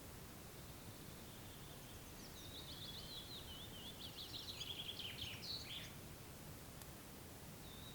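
A songbird singing one phrase of quick, sweeping high notes, starting about two seconds in and lasting about three and a half seconds, over a faint, steady background of outdoor noise.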